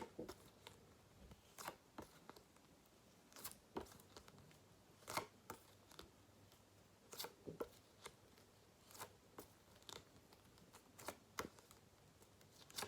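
Faint sharp flicks of paper flashcards being turned over one after another, about one every second or two, against near silence.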